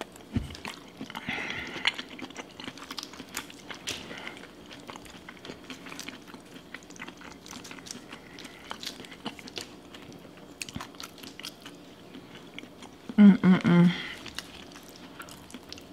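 Close-miked eating of a seafood boil: wet chewing and lip smacking, with small sticky clicks as sauce-covered shrimp are peeled by hand. A short burst of voice comes about thirteen seconds in.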